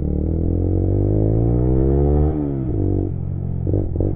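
125cc single-cylinder motorcycle engine of a Lexmoto Assault 125 accelerating: the revs climb for about two seconds, drop sharply at a gear change, then run on at lower revs.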